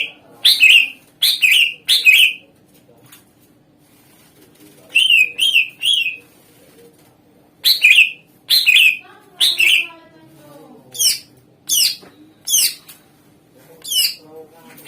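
Greater green leafbird (cucak ijo) singing loud, sharp whistled notes, mostly falling in pitch, in quick clusters separated by short pauses.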